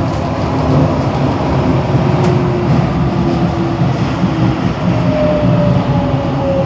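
Singapore underground metro train running, a steady loud rumble with a faint whine that slides slightly down in pitch twice.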